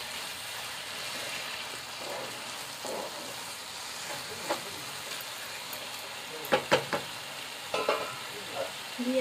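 Grated carrots cooking with sugar for carrot halwa, sizzling steadily in a nonstick pan while a spatula stirs and scrapes them. A few sharp knocks on the pan come about six and a half seconds in, and again near the end.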